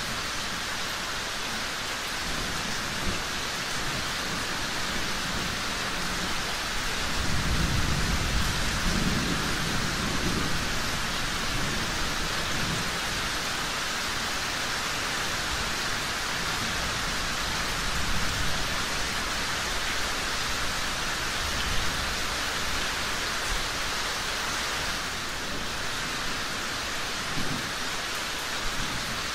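Steady rain falling, with a low rumble of distant thunder rolling through from about 7 to 11 seconds in.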